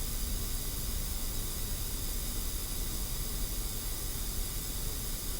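Steady background hiss with no distinct event.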